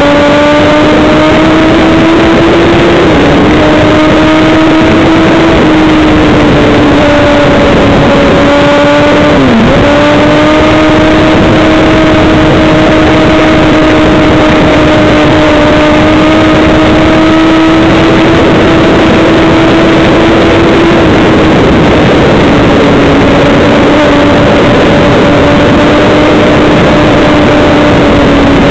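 Motorcycle engine running at steady high revs at road speed, under loud wind rush on the bike-mounted microphone. The engine note dips sharply and recovers about ten seconds in.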